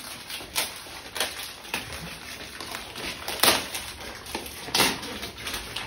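Gift packaging being handled and opened: rustling and crinkling with scattered sharper crackles, the strongest about halfway through and again near the end.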